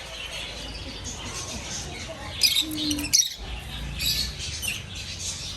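Pet birds squawking and chirping while being fed: a constant high chatter with two loud, sharp squawks about two and a half and three seconds in.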